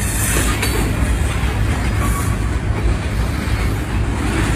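Freight train of loaded tank cars rolling past, a steady rumble of steel wheels on rail with a couple of sharp clicks near the start and a faint brief squeal about two seconds in.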